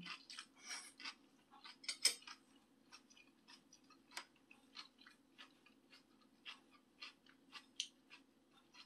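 Close-miked chewing of a mouthful of tofu topped with kimchi: soft, irregular wet mouth clicks, a few a second, over a faint steady hum.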